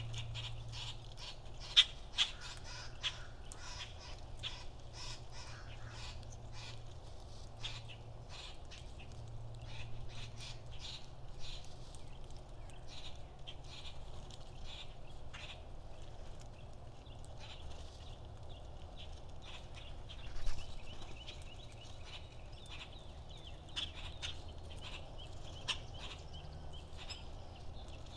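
Birds at a backyard seed feeder: a steady stream of short chips and clicks, with a couple of louder calls about two seconds in and again about twenty seconds in.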